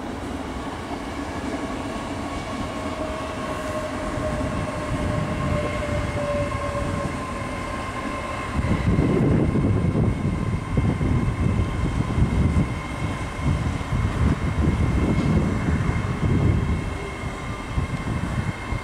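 Great Western Railway Hitachi Class 800-series Intercity Express train moving through the station. Steady electric whine with a tone slowly falling in pitch at first, then, about nine seconds in, a louder, uneven rumble of wheels on rail as the coaches pass close by.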